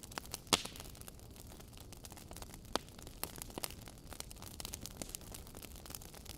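Wood fire burning in a fireplace, crackling with irregular sharp pops from the logs over a soft steady hiss. The loudest pop comes about half a second in.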